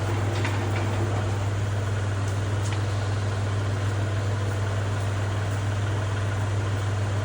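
Kubota compact tractor's diesel engine idling steadily with a constant low hum, with a few faint clicks about a second in.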